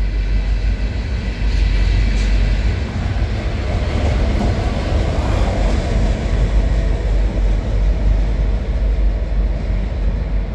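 Train of loaded ballast hopper cars rolling past with a steady low rumble; the diesel locomotive goes by about halfway through, adding engine sound, before the train moves off.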